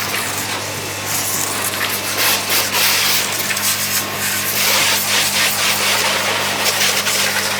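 Portable electric high-pressure washer's water jet hissing against a car's body, rinsing off foam, over the steady hum of the washer's motor. The spray noise swells and fades as the jet moves.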